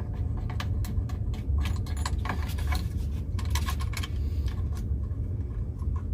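Light metallic clinks and rattles of hand tools being handled, irregular and closely spaced, over a steady low hum.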